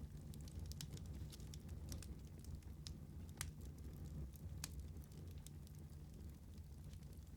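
Wood fire burning with a steady low rumble and scattered sharp crackles and pops, the two loudest about three and a half and four and a half seconds in.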